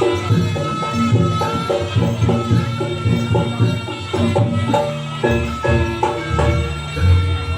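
Live Javanese gamelan music for a jaranan dance, with hand-drum strokes under quick repeated metallophone notes and a steady high tone held over them.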